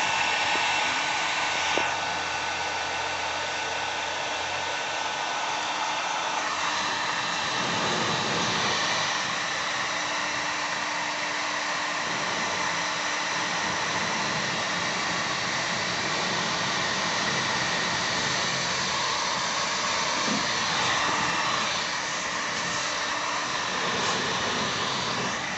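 Electric heat gun blowing steadily, its fan and heater running without a break while it melts material, the tone shifting slightly now and then.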